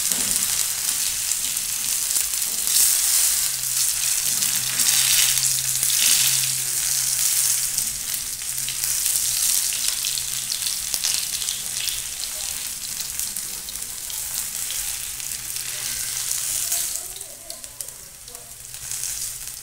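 Boiled potatoes sizzling in shallow oil on a flat cast-iron griddle, browning, while a metal slotted spatula scrapes the griddle and turns them. The sizzle gets quieter about three seconds before the end.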